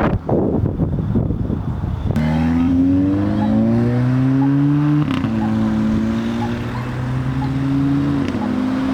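Car engine accelerating away through the gears: a rough rumble for about two seconds, then an engine note that climbs steadily, drops briefly at two gearshifts and climbs again after each.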